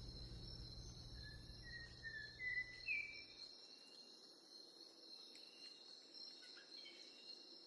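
Faint crickets trilling steadily, with a few short high chirps in the first few seconds. A low hum underneath cuts out about halfway through.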